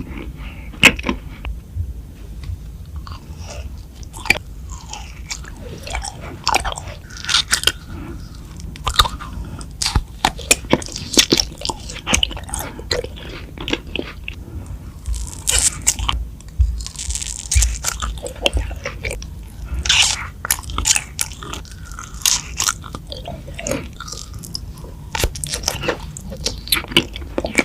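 A person biting and chewing crunchy food close to the microphone, with many sharp, irregular crunches.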